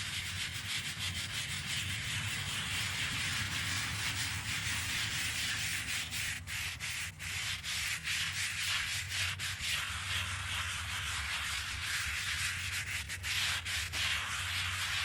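Steady scrubbing on a headstone's stone surface, a brush or abrasive rubbing back and forth almost without pause, with a few brief breaks in the middle.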